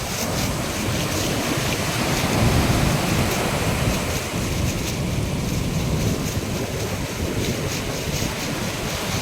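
Large storm waves breaking on the shore, a continuous surf noise that swells in surges, with strong wind buffeting the microphone.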